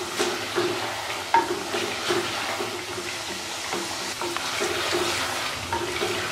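Chicken and ground spices frying in an unglazed clay pot, sizzling steadily, while a wooden spoon stirs and scrapes against the pot in repeated strokes about twice a second: the masala being browned with the meat.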